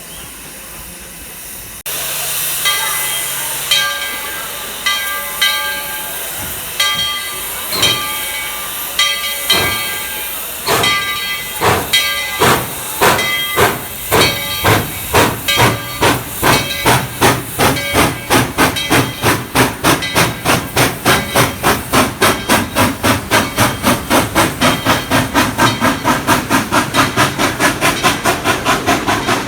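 Narrow-gauge steam locomotive pulling away: a loud hiss of steam cuts in about two seconds in, then exhaust chuffs start slow and speed up steadily to about three a second.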